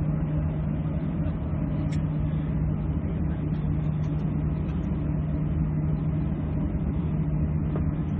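Steady drone of an airliner cabin with the engines running, a constant low hum under an even rushing noise.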